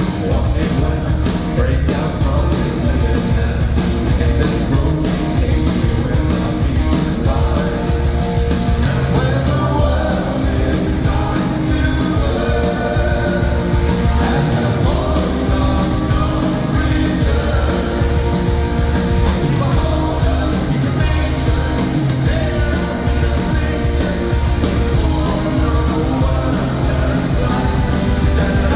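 Live rock band playing loudly, heard through the venue's PA: drums, bass and distorted guitars in a steady beat, with some singing or shouting mixed in.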